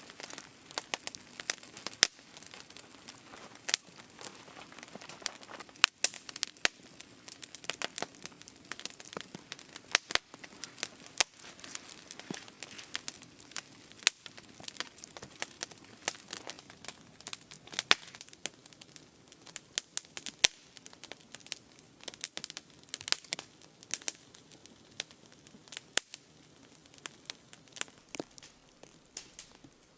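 Burning firewood crackling: irregular sharp pops and snaps, a few of them loud, over a faint steady hiss.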